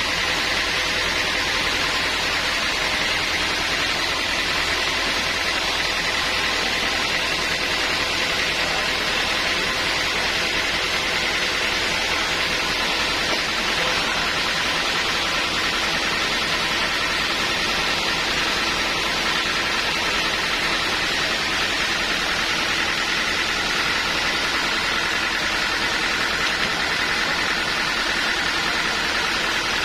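Sawmill machinery running steadily: a constant machine hum and hiss with a few held tones, unchanging in level and pitch.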